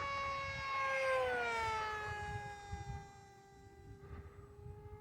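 Brushless electric motor and propeller of an FMS Flash RC plane whining in flight. About a second in, the pitch slides down and then holds lower, and the sound fades.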